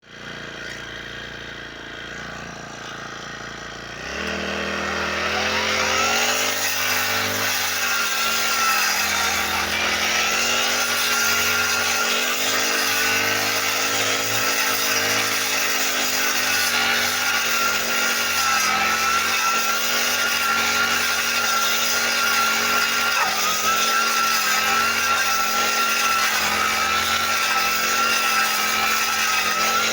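Petrol brush cutter engine running low for about four seconds, then revved up with a rising pitch and held at a steady high speed.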